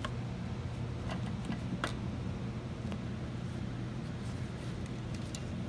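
A few faint, irregular clicks and taps of small plastic parts being handled, as the foot-throttle switch and its springs of a 12V ride-on toy motorcycle are fitted back together, over a steady low hum.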